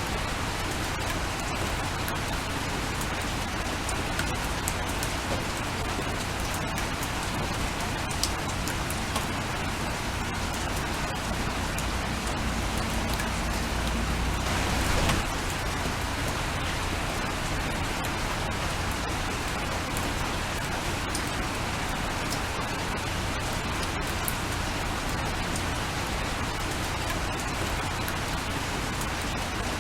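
Steady rain falling, with individual drops ticking sharply here and there. About halfway through, a low rumble swells and cuts off suddenly.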